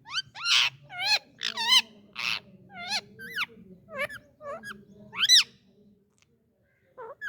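Indian ringneck parakeet giving a quick series of about a dozen short, loud, shrill calls, some with a wavering pitch, for about five and a half seconds, then a single faint call near the end.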